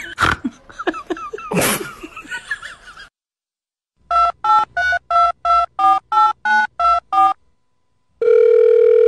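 Telephone keypad tones: about ten short two-note beeps in quick succession, followed near the end by one long steady tone, like a number being dialled. Before them, two loud noisy bursts among scattered sounds, then a moment of silence.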